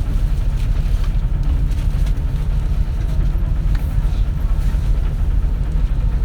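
Cabin sound of a 2004 compressed-natural-gas city bus underway: a steady low engine and road rumble with a few faint clicks and rattles.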